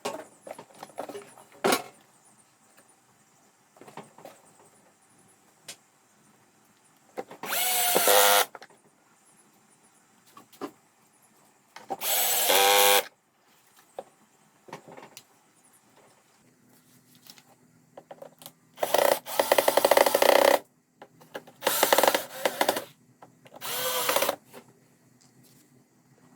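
Handheld power drill run in five short bursts of about a second each, its motor speeding up and winding down each time, with small clicks and knocks of handling between bursts.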